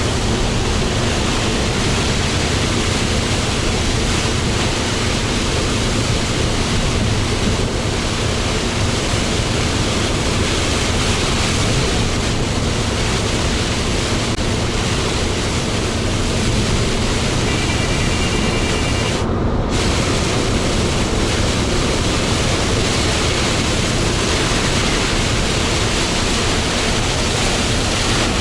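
Steady road noise of a Hino Profia heavy truck at highway speed in heavy rain: tyres on the wet road and spray making a constant rushing hiss over a low engine and drivetrain drone.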